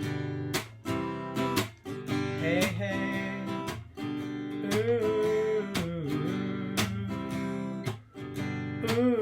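Acoustic guitar strummed in a steady rhythm. A man's voice sings over it from about two and a half seconds in, on the opening of a folk song.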